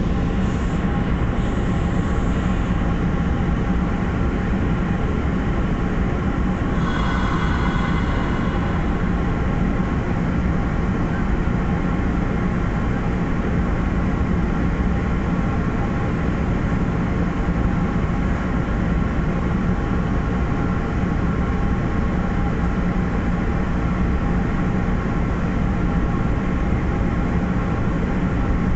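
MBTA commuter rail train under way, heard from on board: a steady rumble and hum of the moving coach. About seven seconds in there is a brief high-pitched squeal.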